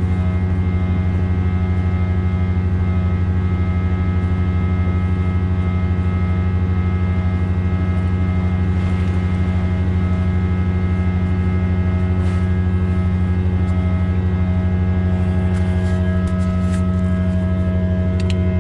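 Oilfield tanker truck's diesel engine running steadily under way, a constant low drone with an even pitch throughout.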